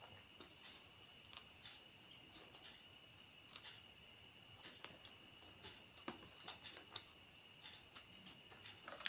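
Close-miked chewing and mouth sounds of a person eating by hand, with scattered sharp clicks and smacks. Under them runs a steady high-pitched hum.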